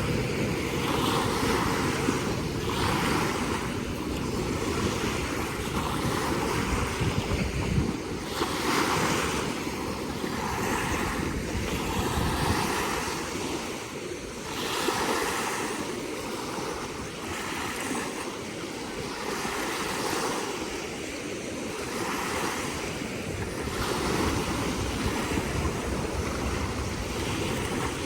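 Lake water lapping in small, repeated waves, with wind rumbling on the microphone, heavier in the first several seconds.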